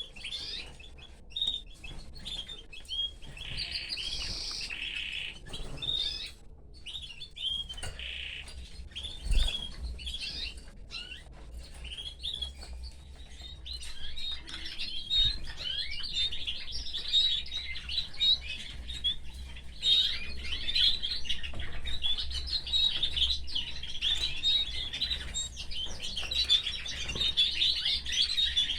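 Canaries singing: quick chirps and a few held notes at first, building into a dense, continuous twittering trill in the second half. A single low thump about nine seconds in.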